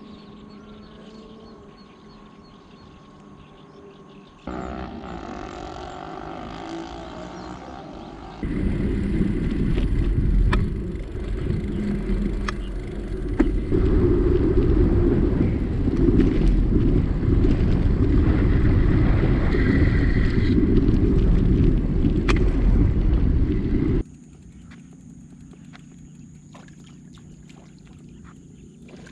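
Outdoor clips cut together. The loudest, in the middle, is a heavy low rumble of wind on the microphone, which starts and stops abruptly at the cuts. Before and after it is quieter outdoor background.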